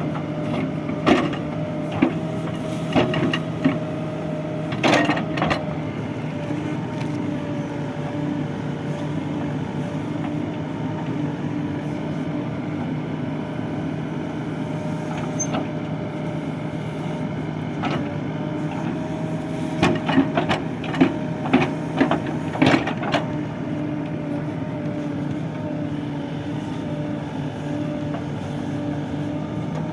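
Heavy diesel engine running steadily at a constant speed, as of a backhoe loader or tractor at work. Two bursts of sharp knocks and clatter cut in over it, one near the start and one about two-thirds of the way through.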